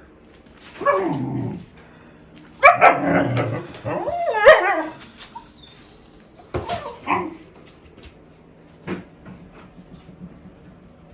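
Dog barking and yelping in three loud outbursts, the longest in the middle, with a single sharp knock later on.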